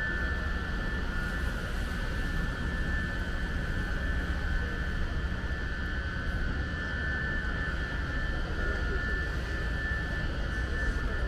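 Steady mechanical drone: a low rumble with a high whine held unchanged throughout.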